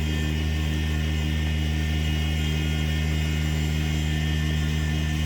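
A machine running steadily: an even low hum with a few faint high whining tones, unchanging throughout.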